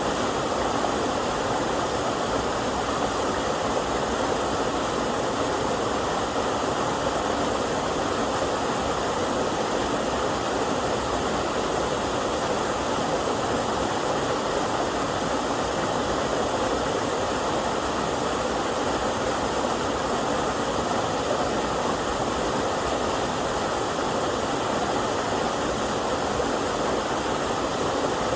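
A 6 m twin-stream waterfall pouring steadily at low flow, heard up close as an even rush of water.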